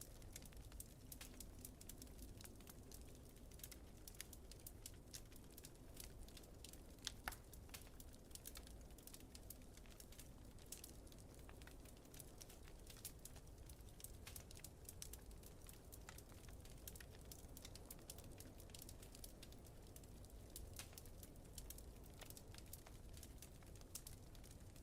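Faint wood fire crackling with scattered small pops, and two sharper pops about seven seconds in, over a low steady rumble of wind.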